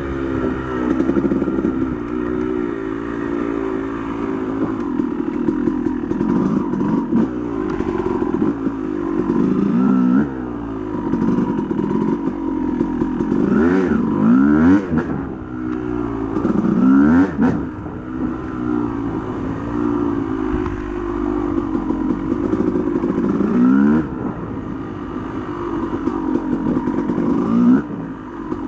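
Yamaha YZ250 two-stroke single-cylinder dirt bike engine revving up and down over and over as the throttle is worked, with sharp rises in pitch on each burst. Short knocks and clatter come through between the revs.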